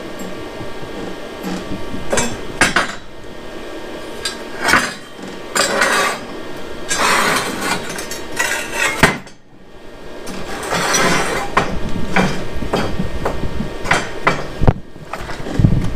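Metal tools and parts clinking and clanking as they are handled and set down, at an irregular pace, with a few short scraping bursts between the knocks.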